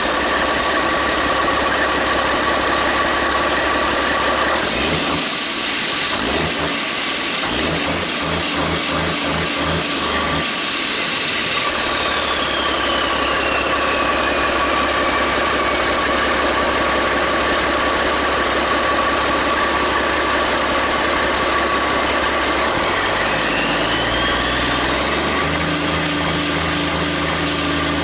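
Cummins N14 Celect Plus inline-six diesel engine running steadily, with a high whine that rises and falls twice as the engine speed changes.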